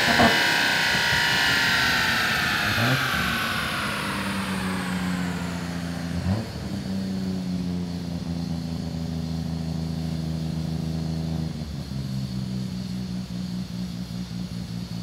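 Nissan R34 Skyline GT-R's RB26 straight-six on a chassis dyno just after a full-power pull. Engine and dyno rollers wind down, a whine falling in pitch over the first several seconds, then the engine settles to a steady idle with a few brief blips of revs.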